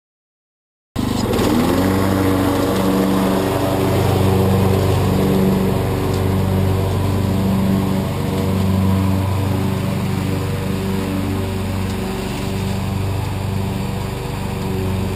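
Husqvarna lawn tractor running steadily while mowing up leaves; the engine sound cuts in abruptly about a second in.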